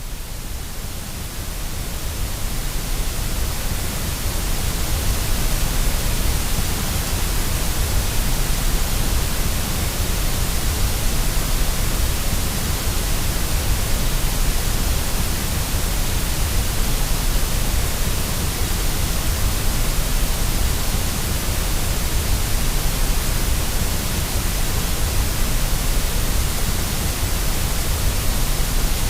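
Steady white noise: an even hiss with a strong low rumble beneath it. It swells up over the first few seconds, then holds level.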